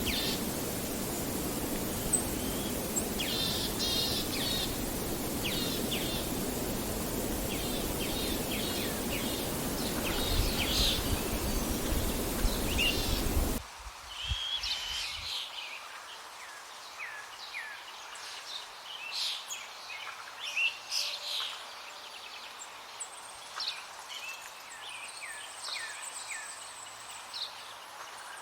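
Small birds chirping and calling in short, repeated notes. For about the first half a steady rushing noise lies under them, which cuts off abruptly; after that the chirps stand out over a quiet background.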